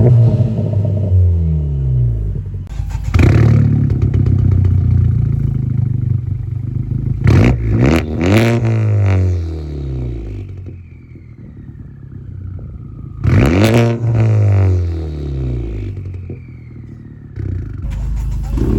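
Honda Civic Type R's turbocharged 2.0-litre four-cylinder, fitted with an aftermarket exhaust, revved repeatedly while stationary. Each blip rises sharply and falls away, with a quick cluster of blips in the middle. A thin falling whistle is heard in one of the gaps.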